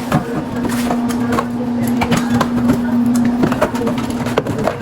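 Grocery packages being handled and set down on pantry shelves: scattered knocks, taps and packaging rustles, over a steady low hum.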